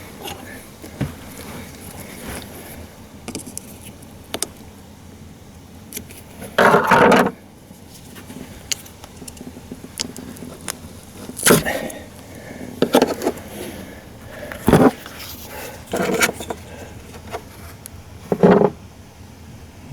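Hands working on car parts: scattered clicks with six short, louder scrapes, the longest just under a second, as parts near the fuel pump control module are handled and pulled loose.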